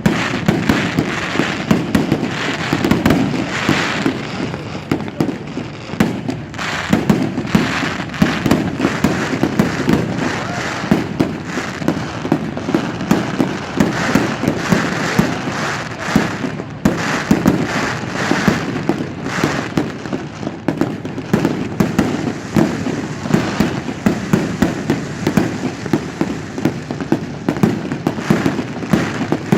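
Fireworks display: a dense, unbroken run of bangs and crackles, many reports following close on one another.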